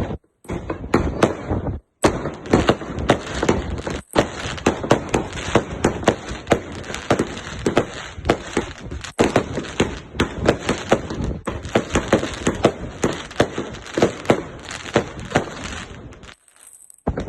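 Consumer fireworks cake firing: a rapid string of shots and crackling bangs, several a second, broken by a few brief gaps.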